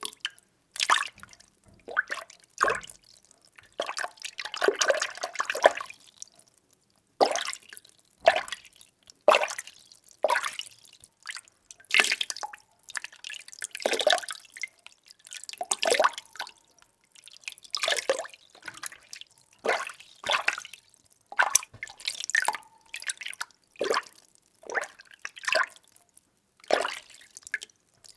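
Water being stirred: a series of short splashing swishes, roughly one a second, with brief quiet gaps between them and one longer swirl about four seconds in.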